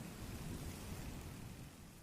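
Steady hiss of wind and blowing snow, fading out near the end.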